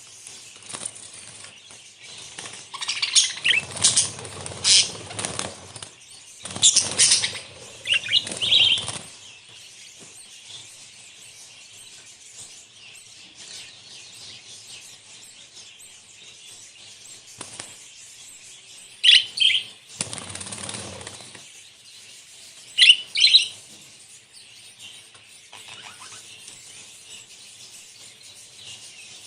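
Budgerigars flapping their wings in three noisy bursts, about three, seven and twenty seconds in, with sharp high chirps scattered among them and a faint constant chatter of the flock in between.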